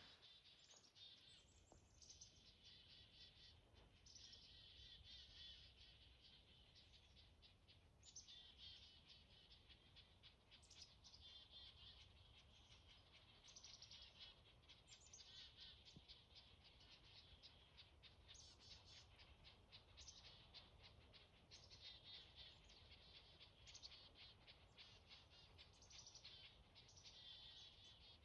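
Black-capped chickadees and red-breasted nuthatches calling continuously, faint. Their high-pitched call series overlap and repeat every couple of seconds, many beginning with a quick falling note.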